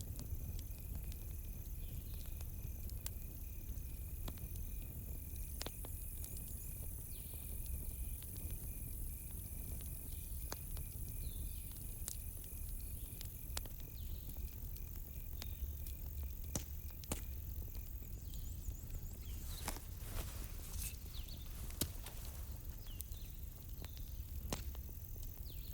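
Campfire crackling, with scattered sharp pops and a quick cluster of them about twenty seconds in, over a low steady rumble. Crickets trill steadily behind it; one high trill stops about two-thirds of the way through.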